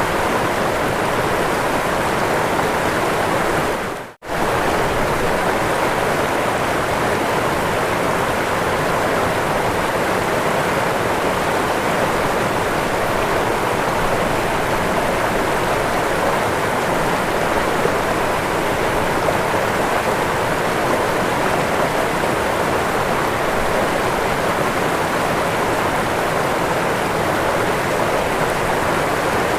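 Waterfall water rushing steadily, an even, unbroken roar of falling water. The sound drops out for a split second about four seconds in.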